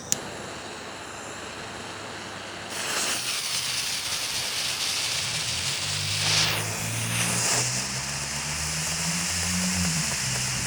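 A sharp click, then a few seconds later a firework smoke ball catches and hisses steadily as it pours out green smoke. From about halfway a vehicle engine hums underneath.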